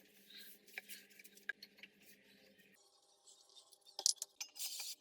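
Woodworking handling sounds: scattered light clicks and taps of tools and wood, with a cluster of sharper knocks and a short scrape near the end.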